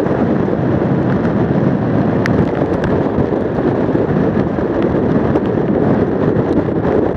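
Gale-force wind buffeting the microphone, a loud, continuous blast of wind noise with a few faint ticks mixed in.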